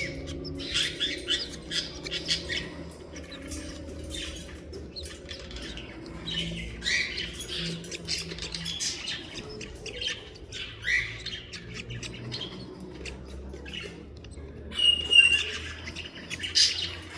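Pet birds chirping and calling over and over, with one clear whistled note near the end.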